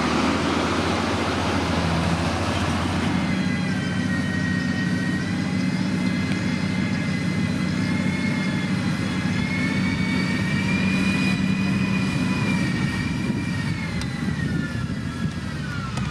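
Heavy motor grader's diesel engine running steadily under load. From about three seconds in, a high whine rides on top of it, slowly rising and then dropping away near the end.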